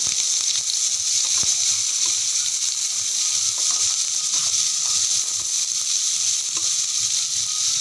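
Chopped onions sizzling in hot oil in a kadai: a steady, loud frying hiss.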